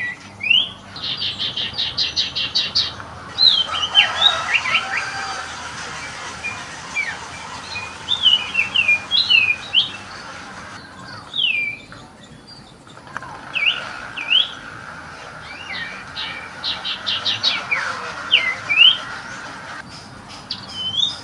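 A songbird singing. Fast runs of short, even notes, about eight a second, alternate with sharp up- and down-slurred whistles, in phrases broken by short pauses.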